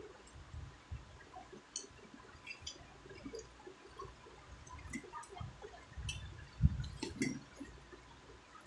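Close-up eating sounds: wet chewing and lip smacks from a person eating rice roti dipped in tomato chutney, with irregular small clicks and soft thumps. The loudest is a low thump about two-thirds of the way in.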